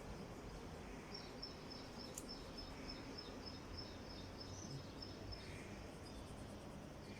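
Faint run of quick high chirps, about five a second, starting about a second in and stopping a little under three seconds later, over steady low background noise.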